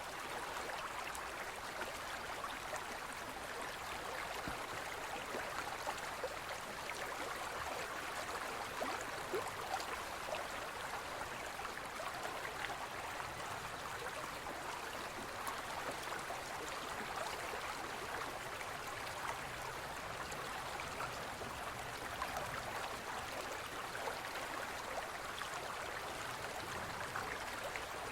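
Forest stream flowing: a steady rush of water with small splashes and gurgles throughout.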